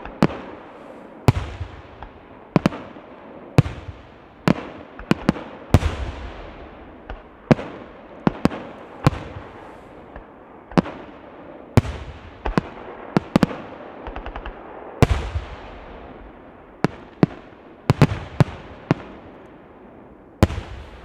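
Aerial fireworks shells bursting in quick, irregular succession: more than twenty sharp bangs, each trailing off in a fading echo, with a few coming close together in pairs and clusters.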